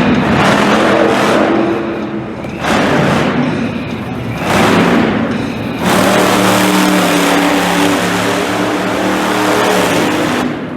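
Monster truck engine revving hard in the arena, surging up three times and then holding at high revs before dropping off near the end.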